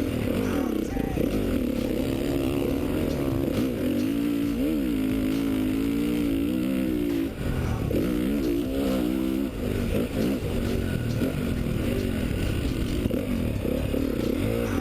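A 2013 Honda CRF450 motocross bike's single-cylinder four-stroke engine heard from on board, revving up and down as the throttle is opened and closed around the track, with brief throttle chops about halfway through.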